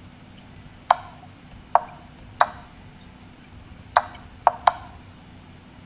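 Six short, sharp clicks at uneven intervals, with three close together near the end.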